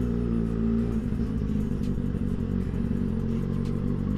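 Motorcycle engine running steadily while riding, a low, even engine drone.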